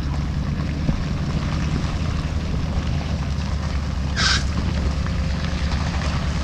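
1984 Chevrolet C60 feed truck's gas V-8 engine running steadily, with a brief hiss about four seconds in.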